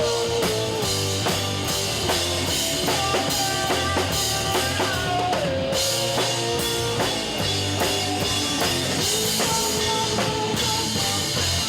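Live rock band playing an instrumental passage: a drum kit with bass drum keeps a steady beat under sustained, sliding melodic lines.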